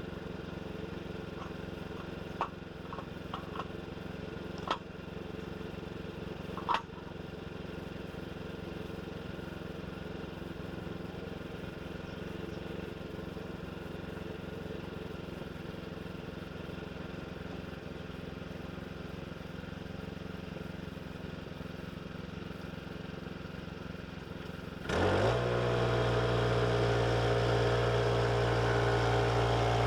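An engine running steadily, with a few sharp knocks in the first several seconds. About 25 seconds in, it suddenly becomes much louder, as if throttled up or put under load, and stays there.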